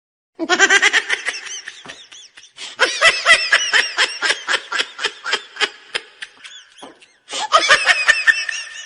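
Laughter sound effect: three bouts of rapid, rhythmic ha-ha laughing, the middle one the longest and trailing off.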